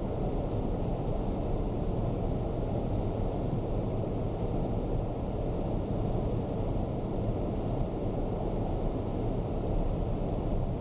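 Car driving, a steady low rumble of road and engine noise with no change.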